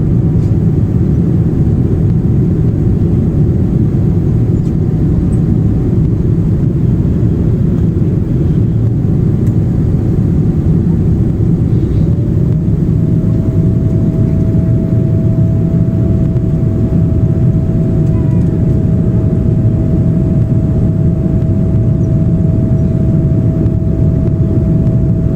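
Steady roar of engine and airflow noise inside the cabin of a Boeing 777-300 airliner. A faint steady whine sits over it, slipping to a slightly lower pitch about twelve seconds in.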